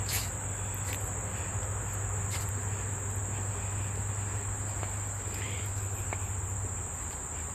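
Outdoor insect chorus: a steady high-pitched drone that does not change, with a low steady hum underneath and a few faint clicks.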